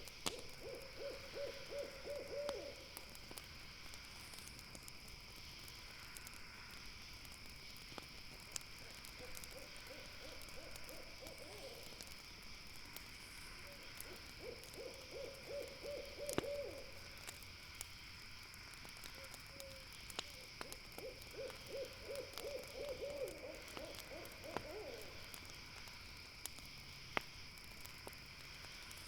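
An owl calling in four bouts of rapid trilled hoots, each lasting a few seconds, over a steady high night-insect hum and scattered sharp crackles from a campfire.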